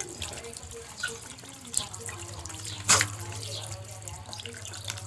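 Running water trickling and splashing, with many small splashes and clicks and one louder sharp snap about three seconds in.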